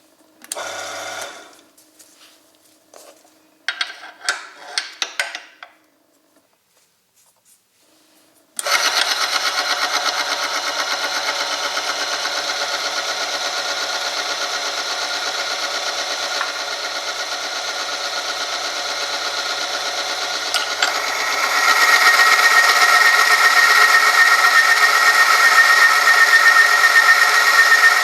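A few short knocks and rattles, then about eight seconds in an oil-film friction test machine's electric motor starts and runs steadily, the loaded test sample rubbing in Mannol Ceramic Pro 10W40 oil. About two-thirds through it gets louder, with a strong high whine over the running noise.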